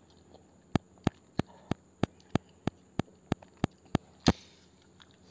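Close-miked mouth sounds of a person chewing a mouthful of noodles: a regular run of sharp, wet clicks, about three a second, ending with a louder click and a short hiss a little after four seconds in.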